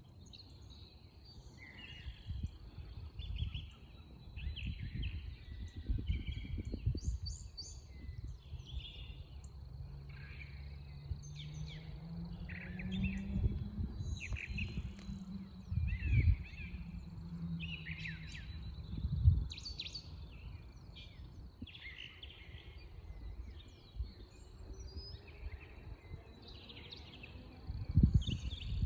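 Several songbirds chirping and singing outdoors, short calls coming one after another throughout, over a faint steady high whine. A low hum swells and fades in the middle, and there are a few low bumps on the microphone.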